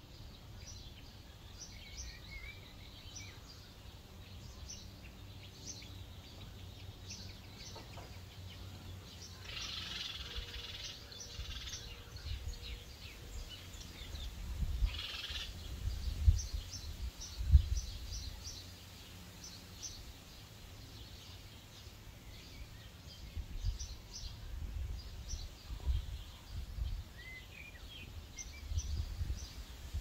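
Small birds chirping in a tree: a steady scatter of short, high chirps, with two denser bursts of song about ten and fifteen seconds in. Wind buffets the microphone with low rumbles, strongest in the second half.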